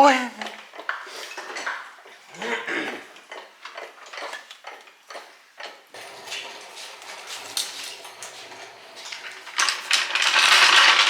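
Metal parts and tools clinking and rattling in a workshop: a scatter of sharp clicks, then a louder burst of rattling near the end.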